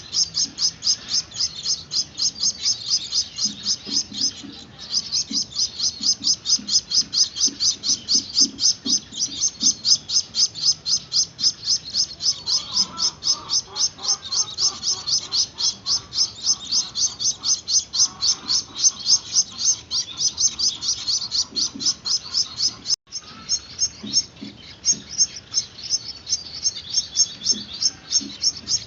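Gouldian finch chicks giving rapid, evenly repeated high begging chirps, about five a second, calling for food while being hand-fed.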